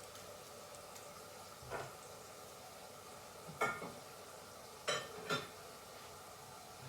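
Kitchen clatter: four short knocks and scrapes of dishes or bowls being handled, the last two close together, over a faint steady hum.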